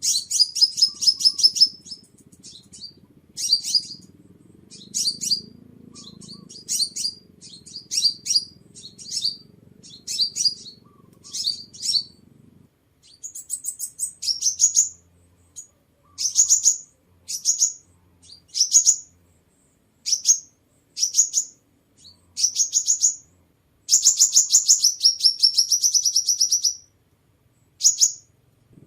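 Sunbird song: short bursts of rapid, high-pitched twittering trills, repeated about once a second, with one longer trill lasting about three seconds near the end.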